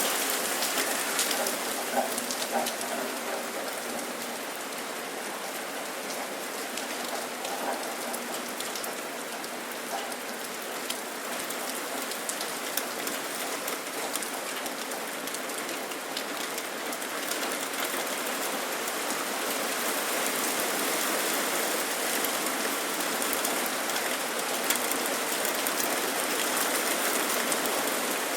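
Steady rain falling on hard surfaces, with many individual drops ticking and pattering close by.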